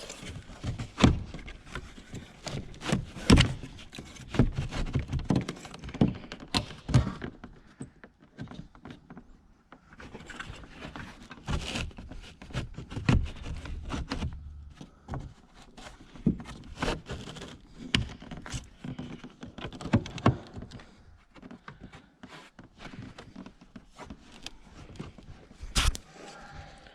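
Irregular clicks, knocks and thunks of parts and tools being handled during hands-on work, with a few louder knocks about a second in, around three seconds in and near the end.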